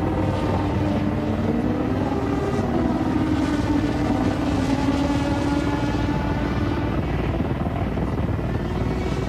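Steady engine drone with a slightly wavering pitch over a heavy low rumble, which drops away abruptly right at the end.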